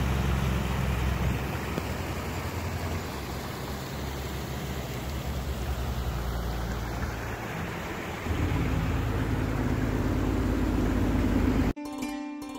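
Waterfall's rushing water, a dense steady wash of noise with a deeper rumble underneath that grows louder about eight seconds in. It cuts off suddenly near the end as music starts.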